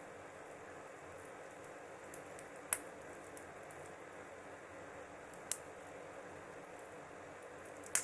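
Wood fire crackling: a steady soft hiss broken by a few sharp pops of burning wood, three of them loud and a few seconds apart.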